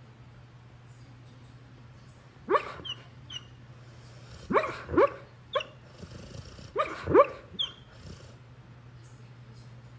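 Pit bull barking in its sleep: short, muffled woofs that rise in pitch, mixed with small high squeaks, in three bursts of two or three each, over a steady low hum.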